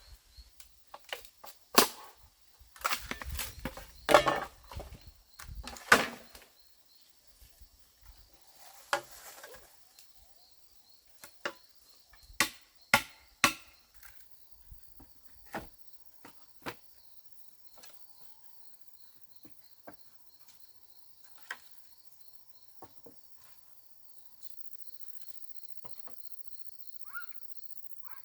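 Irregular sharp knocks and chops on wood, several in quick clusters during the first six seconds and then more spaced out, over a steady chirping of crickets.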